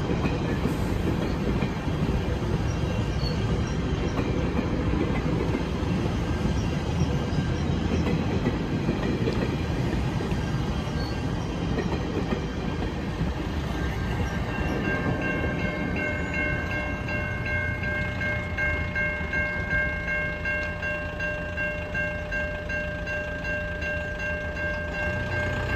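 GO Transit bilevel passenger coaches rolling past with a steady rumble of wheels on rail. About halfway through, a train horn starts sounding a long chord of several notes held to the end.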